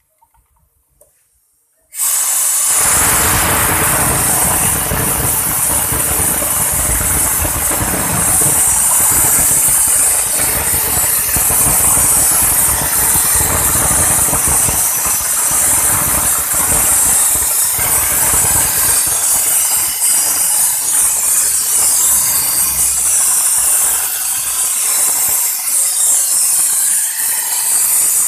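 A car engine running during a carbon-clean treatment, with a loud steady hiss over an uneven low rumble. It starts abruptly about two seconds in.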